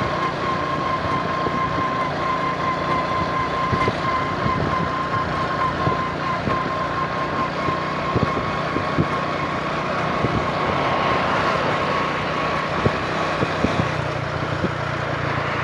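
A vehicle running along a road, with steady engine and road noise and a steady high whine that fades out in the second half. A few light clicks come near the end.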